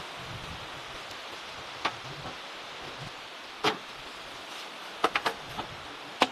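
Steady hiss with a few sharp knocks or clicks: single ones a little under two seconds in and halfway through, a quick run of three about five seconds in, and one more near the end.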